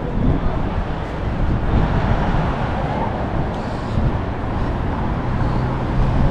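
City street traffic: the steady noise of passing cars, with a low engine hum holding steady in the last two seconds or so.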